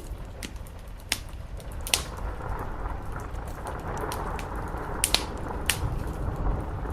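Steady rain on a roof with a low rumble underneath, overlaid by a wood fire crackling with a few sharp pops scattered through, including around a second in and again after five seconds.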